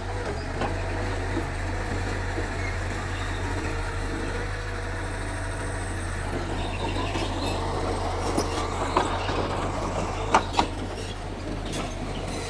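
Mitsubishi bulldozer's diesel engine running steadily with a low hum, with a few scattered sharp knocks, two of them close together about ten seconds in.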